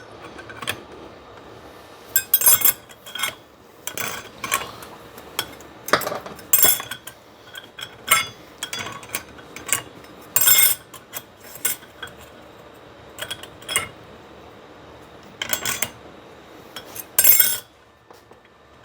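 Metal clinks and short clattering rattles of steel clutch plates, friction discs and the clutch hub being fitted into an automatic transmission's high gear clutch drum, coming in irregular bursts.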